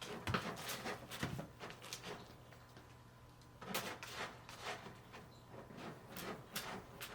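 Kittens playing: scattered light taps, scuffs and small knocks of paws and bodies scrambling, in two flurries.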